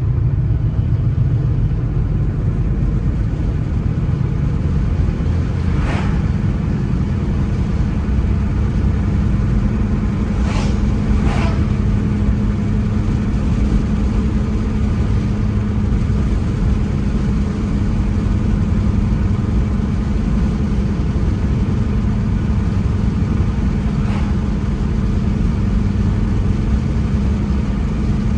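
Car driving along a road: steady engine and tyre rumble with a constant low hum, and a few brief clicks or knocks, two of them close together about halfway through.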